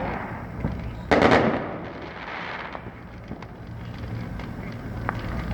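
Fireworks going off at a distance: one loud bang about a second in that trails into crackling, then scattered smaller pops.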